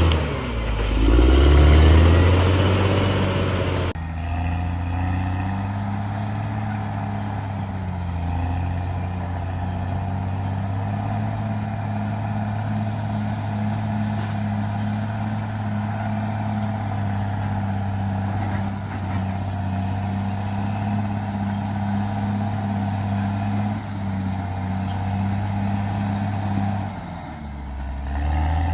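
Bulldozer's diesel engine running heavily. Its pitch drops and climbs back in the first few seconds, then holds steady, with a short dip near the end.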